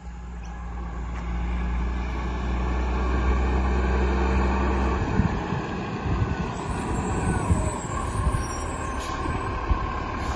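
Garbage truck running: a steady low engine drone that changes about five seconds in to a rougher, noisier rumble.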